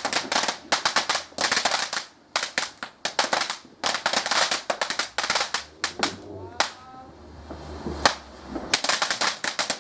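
Fireworks crackling: dense clusters of rapid sharp crackles, with a low rumble and a single sharp bang about eight seconds in, then a last burst of crackles.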